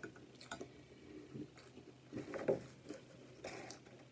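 Quiet close-up chewing of a mouthful of pancake: soft wet mouth clicks and squishes at irregular intervals.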